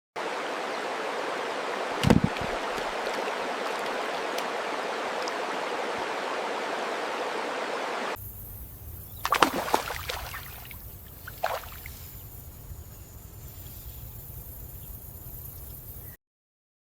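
Steady rush of running water, with one sharp hit about two seconds in. Halfway through it cuts to a quieter outdoor scene with a few short sounds, then falls silent just before the end.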